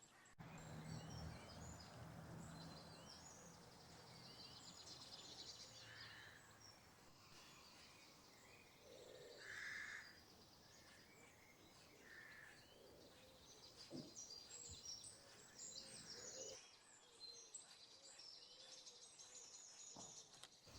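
Faint birdsong: many short, high chirps from small birds, scattered over very quiet background noise.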